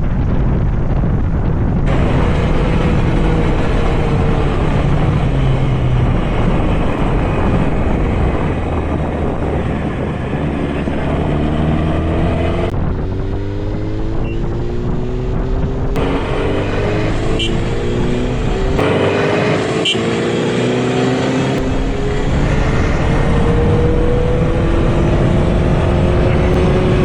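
Honda motorcycle riding with heavy wind rush on the microphone, its engine note rising again and again as it accelerates through the gears. The sound changes abruptly a few times.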